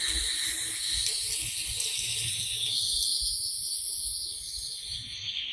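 Garden hose spraying water onto flower beds, a steady hiss that thins out about halfway through.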